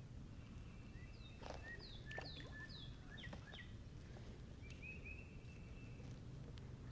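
Faint bird calls: a quick run of short, falling chirps about one and a half to three and a half seconds in, and a few thin held notes, over a low steady background hiss.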